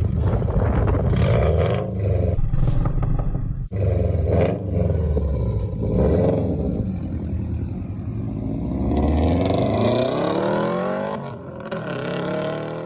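Sports car exhaust at high volume, revved repeatedly with a long climb in pitch near the end, then dropping off.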